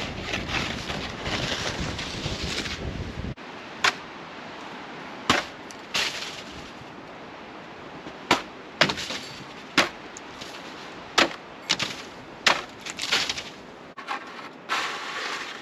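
Rumbling storm wind noise that cuts off abruptly about three seconds in, followed by about a dozen sharp, irregular cracks and pops over a quiet background.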